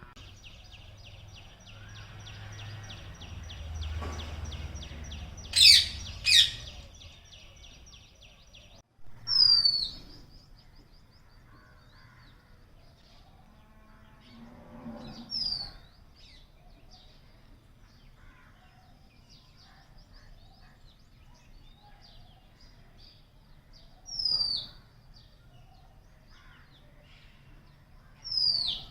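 Birds calling: a fast, high rattling trill for the first third, then loud, sharp, downward-sliding calls repeated four times several seconds apart.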